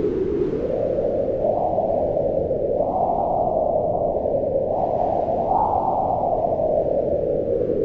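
Howling mountain wind: a steady rush whose pitch swells up and sinks back in slow gusts, rising a second or so in and peaking about three times before easing near the end.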